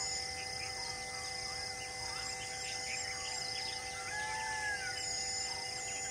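Wild birds chirping and whistling: many short calls, over a steady, unchanging drone.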